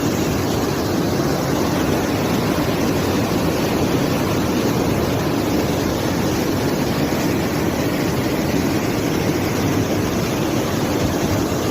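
Floodwater rushing down a mountain stream in a flash flood: a loud, steady rush.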